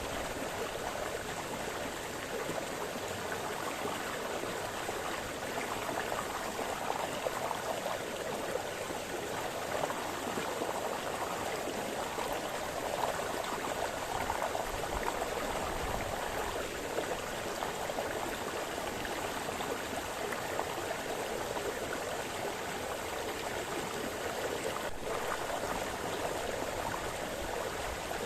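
Small brook splashing and burbling over stones, a steady rush of flowing water with small flickering swells.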